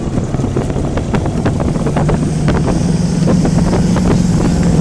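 A motorboat engine running steadily, its note growing louder about halfway through, with wind buffeting the microphone.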